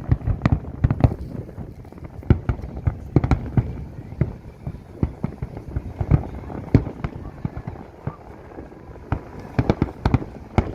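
Fireworks display: a rapid, irregular string of bangs and cracks, some coming in quick clusters.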